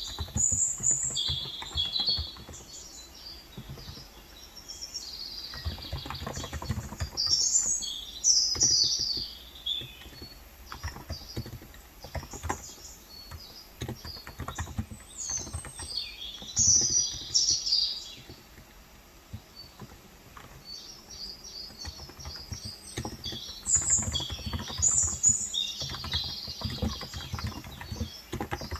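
Typing on a Cox Endeavor contactless (electrostatic capacitive) tenkeyless keyboard with 35 g switches: an uneven run of soft key strokes. Birds chirp high over the typing in bursts, loudest about a third of the way in and again past the middle, with a quieter lull after that.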